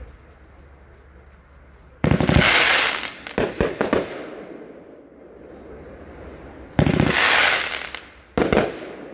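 Consumer fireworks cake, Vampire Tears, firing: two loud shots about five seconds apart, each followed by a few sharp bangs.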